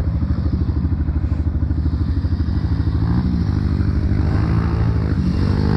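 Dirt bike engine running at low revs with a rapid, even pulse, picking up revs briefly about three seconds in and again near the end.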